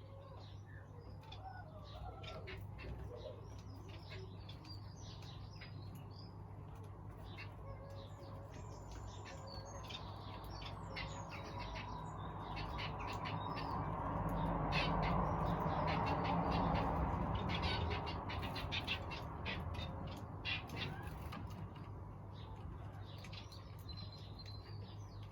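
Small aviary birds chirping and twittering in quick, high calls over a low steady hum. Around the middle, a rushing noise swells up and fades away over several seconds.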